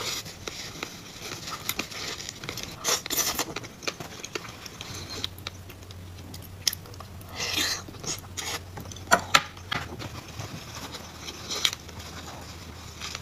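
Close-up eating of salmon sushi: wet chewing and mouth sounds, with scattered short smacks and clicks.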